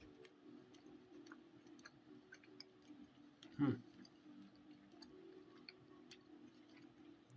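A person chewing a bite of steak: faint, scattered wet mouth clicks over a steady low room hum, with one short louder sound a little past halfway.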